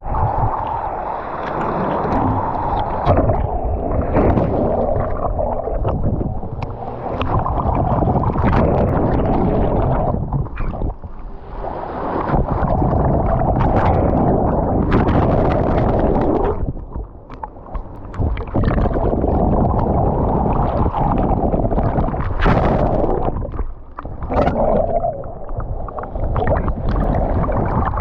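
Seawater sloshing and gurgling over a waterproof camera held in the ocean surf, muffled and continuous, with a few brief lulls.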